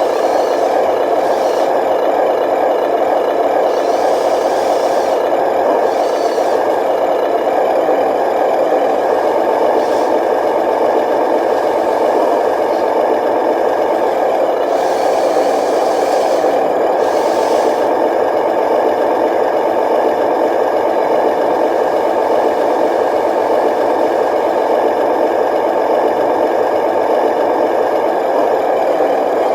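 Radio-controlled dump truck running steadily, its motor and drive whirring, with scraping and rattling as the load is handled.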